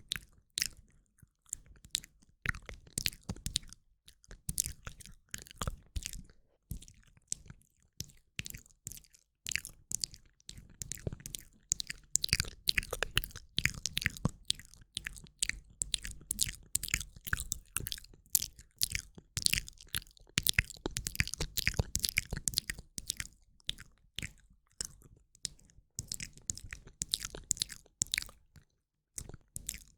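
Close-up ASMR mouth sounds from a woman: a dense run of quick, wet clicks, with short pauses about a second in and near the end.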